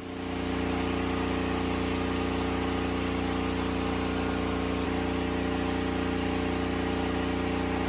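Portable generator engine running steadily at a constant speed, fading in over the first half second.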